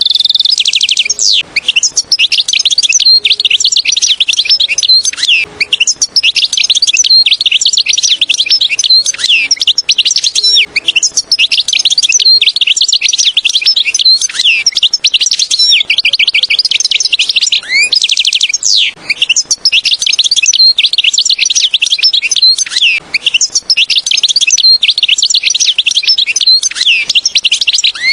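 European goldfinch song: a long, fast, high-pitched twittering of chirps, trills and quick rising notes, almost unbroken.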